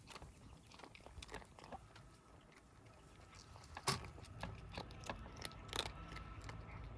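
Stray kittens chewing and crunching their food, irregular small crunches and clicks with a sharper one about four seconds in.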